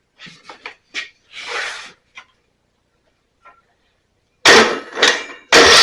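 A few small metallic clicks of handling, then about four and a half seconds in a Briggs & Stratton riding-mower engine is cranked over by its electric starter, a loud, evenly pulsing churn, to test that the coil now fires with its ground wire disconnected.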